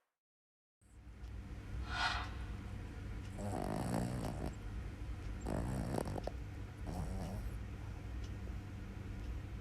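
Small pet dog snoring in its sleep, three rasping snores a second or two apart over a steady low hum.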